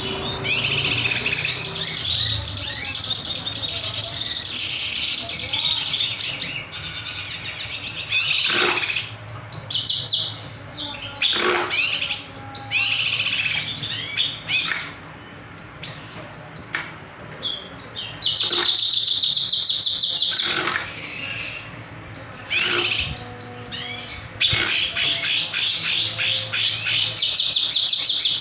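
Kinoy bird singing continuously: rapid high trills and chattering phrases broken by sharp, whip-like sweeping notes, with long steady trills in the second half.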